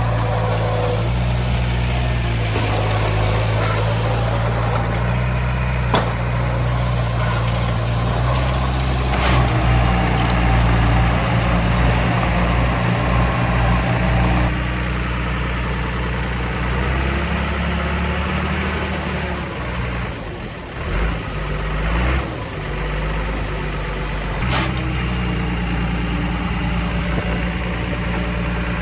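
Heavy diesel engine of an earthmoving machine running, its pitch and load shifting as it works, with a few sharp clanks.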